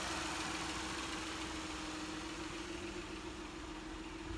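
2009 Ford Flex's 3.5-litre V6 engine idling, a steady hum under a hiss that gradually gets quieter.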